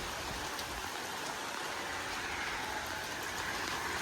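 Steady hiss of rain falling, with a few faint drop ticks.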